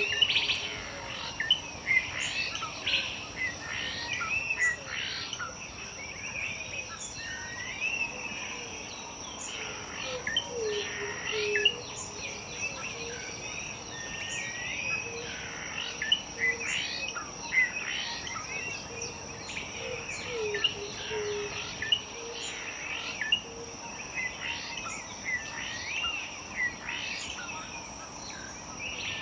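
Dawn-chorus-like mix of many birds chirping and whistling over a steady high insect drone, with a lower repeated call joining in now and then.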